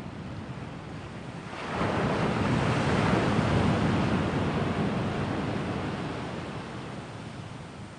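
Sea waves on the shore: one wave surges in sharply about two seconds in, then washes back and fades over the following few seconds.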